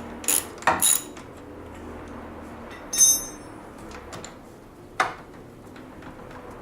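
Steel hand tools (socket, wrench) clinking and knocking against the snowmobile's suspension hardware: two quick clicks in the first second, a ringing metal clink about three seconds in, and a sharp knock about five seconds in.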